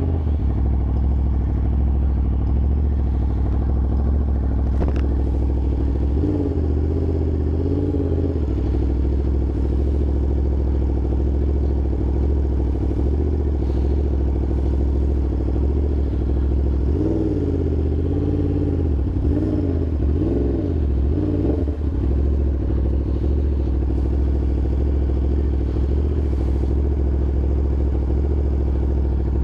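Yamaha R1's inline-four engine running steadily at an even pitch, with a wavering, warbling tone rising and falling twice: once about six seconds in and again for a few seconds past the middle.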